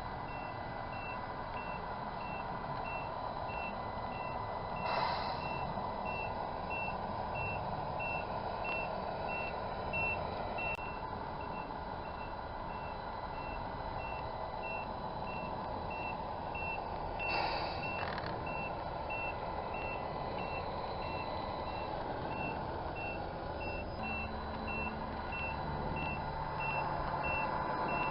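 A 1/14 Tamiya Scania Highline RC truck's electronic sound unit playing a steady reversing beeper, evenly repeated, over its engine running sound. Two short air hisses come about five seconds in and again near the middle, and the engine note changes near the end.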